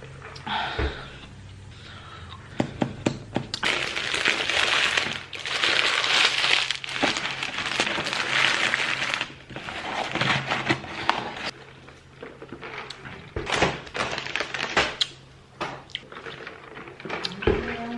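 Close-up eating and handling of fast-food packaging: scattered clicks and knocks, with several seconds of paper rustling and crinkling in the middle.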